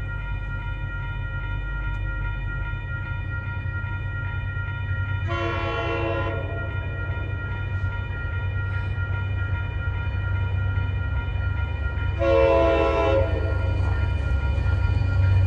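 Outbound commuter train approaching a grade crossing, its locomotive horn sounding two blasts of about a second each, roughly seven seconds apart, over a low rumble that grows louder as the train nears. Steady high ringing tones from the crossing signal run underneath.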